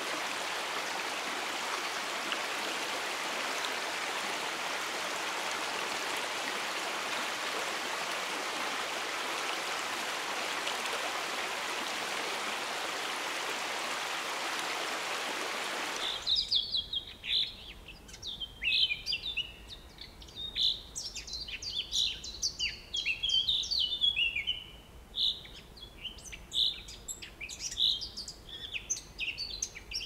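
Steady rush of a stream tumbling over boulders. About sixteen seconds in it cuts abruptly to birds calling: many quick, high chirps and whistles, some of them rising or falling.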